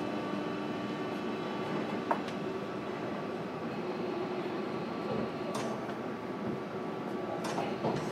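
Interior running sound of a JR Kyushu 305 series electric train, heard inside the motor car: steady rolling noise from the wheels and track, with a steady hum and whine underneath. A few sharp clicks come about two seconds in, about halfway through and near the end.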